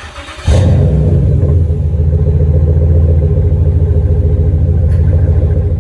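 The 5.3-litre LS4 V8 of a 2008 Buick LaCrosse Super, mufflers deleted, exhaust out through 4-inch tips. It fires up about half a second in, then idles with a loud, deep, evenly pulsing rumble.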